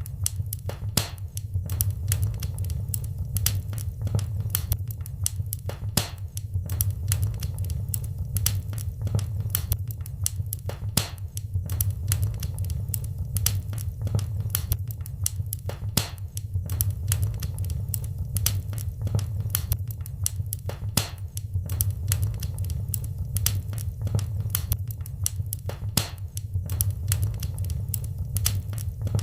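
Wood fire in a fireplace crackling steadily, with many sharp irregular pops and snaps over a low, steady rumble of the flames.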